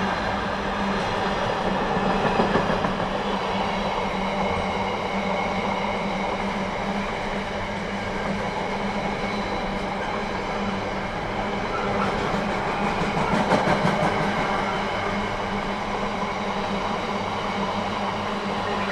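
Container flat wagons of a freight train rolling past at speed: a steady rumble of steel wheels on rail, with a louder stretch of wheel clatter about two-thirds of the way through.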